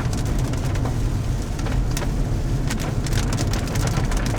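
Rain hitting a car's roof and windshield, heard from inside the moving car: many sharp, irregular drop impacts over the steady low rumble of the engine and tyres.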